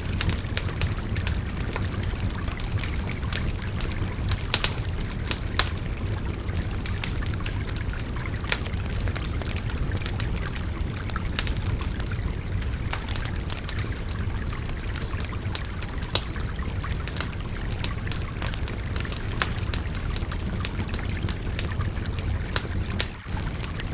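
Wood fire crackling with frequent sharp pops and snaps over the steady babble of a river, with a brief dip in level near the end.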